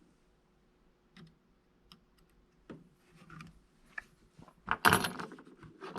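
Scattered light clicks and taps of small plastic drone parts and hand tools being handled on a workbench, with a louder handling noise lasting about half a second near the end.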